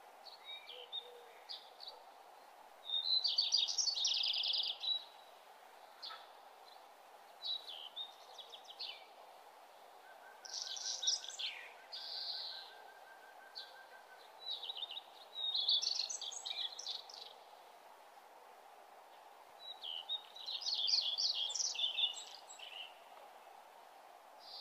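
A songbird singing in short, rapid chirping phrases that repeat every few seconds, over a faint steady background hiss.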